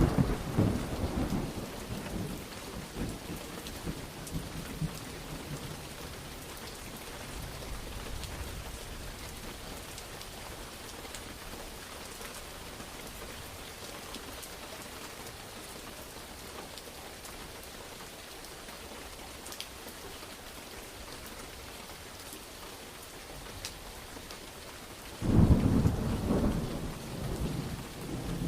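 Steady rain falling, with thunder: a peal rumbling and dying away over the first few seconds, then a second sudden loud peal rolling for a few seconds near the end.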